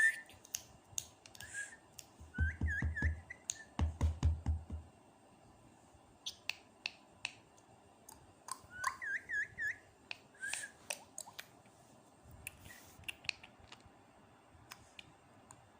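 Pet parrot giving two short runs of quick, wavering whistled chirps, among scattered sharp clicks and taps, with a few dull thumps early on.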